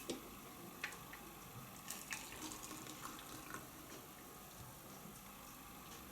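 Boiling water being poured into a faceted tea glass, faint, with a few light clicks.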